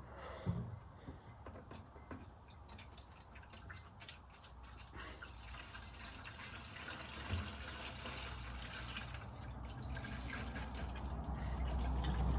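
Fuel being poured into a diesel heater's plastic fuel tank, trickling and dripping at first, then a steadier pour that grows gradually louder.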